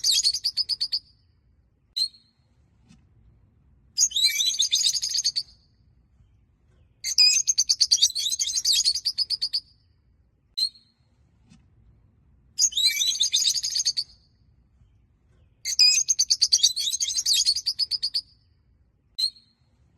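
Peach-faced lovebirds chirping: bursts of rapid, high chattering calls one to two and a half seconds long, coming about every three seconds, with single short chirps in between.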